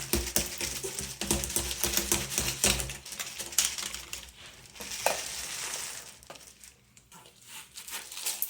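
Bits of walnut shell and debris rattling and clattering as they are shaken out of a Henry vacuum cleaner, with soft thumps for the first three seconds, then a rustling hiss that dies down.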